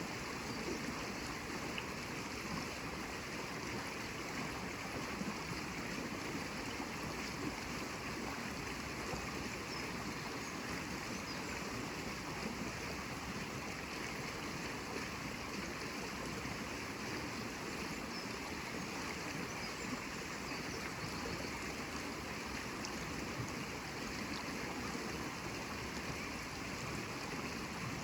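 Steady flowing water, like a stream running over rocks, a continuous even rush with no breaks.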